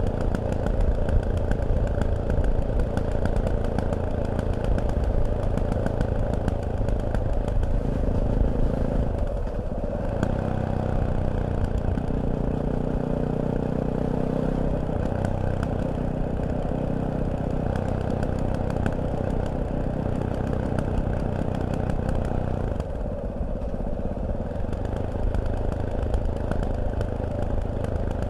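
Fantic Caballero 500 Deluxe's single-cylinder four-stroke engine running on the road. The engine note changes about ten seconds in and eases off a little past twenty seconds.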